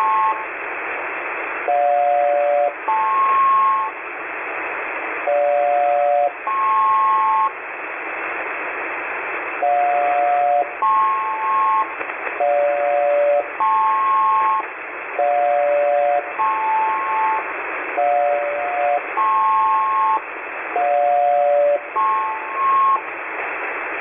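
SELCAL tone calls over HF single-sideband aircraft radio: a two-tone chord about a second long, a short gap, then a second higher two-tone chord. The call repeats about eight times over steady band-limited receiver hiss.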